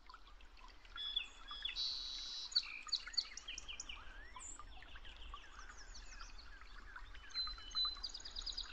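Birds chirping: a dense scatter of short, quick calls throughout, faint.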